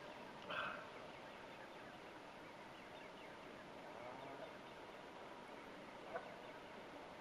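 Faint steady outdoor background with a short bird call about half a second in and a briefer, fainter call about six seconds in.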